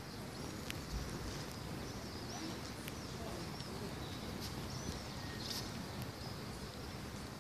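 Small birds chirping over and over, short high chirps, against a steady low background rumble.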